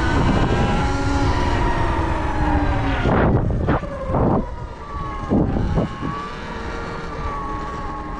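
Sur Ron electric dirt bike's motor whining as it rides, the pitch drifting gently with speed, over heavy wind noise on the microphone. There are louder rushes of noise about three seconds in and again about five seconds in.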